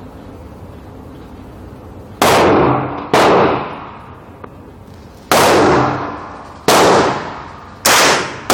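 Gunshots at a shooting range: five single shots, unevenly spaced, two about a second apart and then three more at a little over a second apart. Each shot is followed by a long ringing echo that fades over most of a second.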